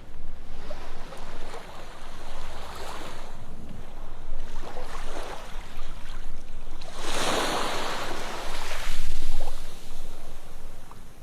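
Ocean surf washing onto a sandy beach, in a series of swells that rise and fall. The biggest wave comes about seven seconds in.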